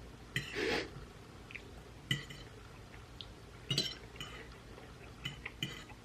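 Cutlery clinking against a plate while eating: about five light, ringing clinks spread over six seconds. The first and loudest is followed by a brief scrape.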